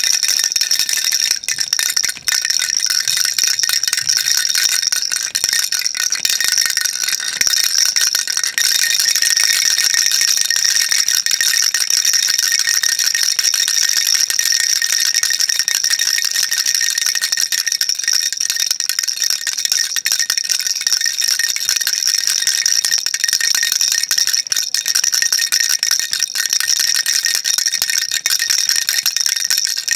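Baby rattle shaken continuously: a dense, steady, unbroken rattle, dipping only briefly about two seconds in.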